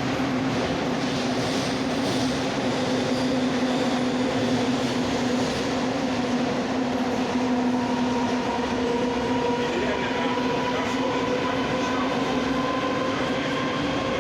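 Rusich metro train running between stations: a steady rumble of wheels on rail with a steady motor whine, and a higher whine tone joining about halfway through.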